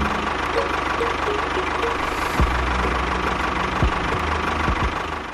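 An engine running steadily, with an even low rumble, cutting off abruptly near the end.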